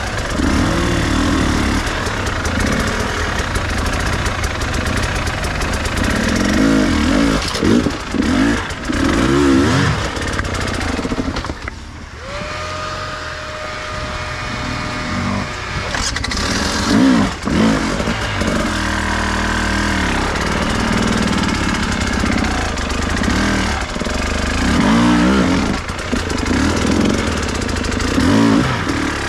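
Enduro dirt-bike engine revving up and down repeatedly while riding off-road. About twelve seconds in, the revs briefly drop to a quieter, steadier note.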